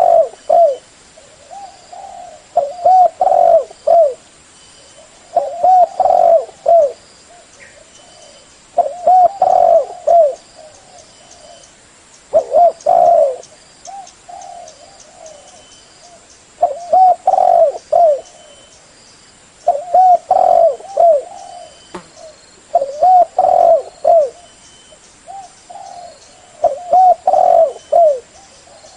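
Spotted dove cooing: a phrase of several short, arched coos, repeated about every three to four seconds.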